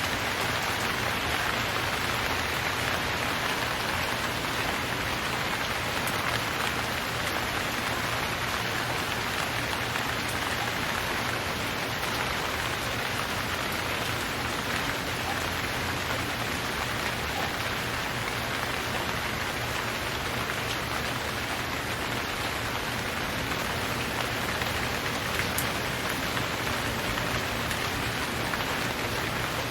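Steady rain falling, an even hiss of many drops pattering on surfaces with no thunder or letup.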